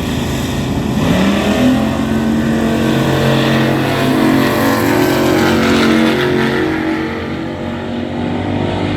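Drag-race engines, an OBS Chevy truck against an S197 Mustang, accelerating hard down the strip: the pitch climbs sharply about a second in, then steps through several gear shifts.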